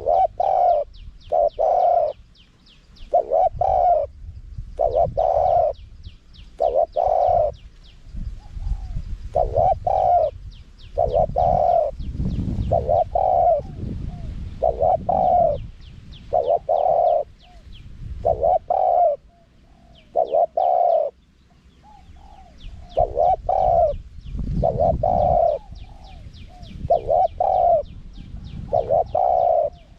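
Spotted dove cooing over and over, a run of short low coos in small groups with brief pauses between them, with faint higher chirps and a low rumble underneath.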